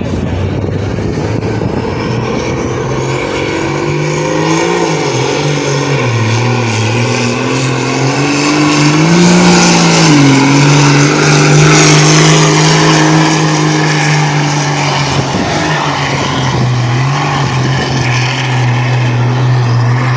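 Farm tractor engine running hard under heavy load while pulling a weight sled. Its note sags and recovers several times as it lugs, and it is loudest in the middle.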